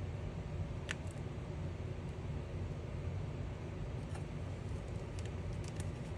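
Steady low rumbling background noise, with a few faint light clicks about a second in and again several times near the end.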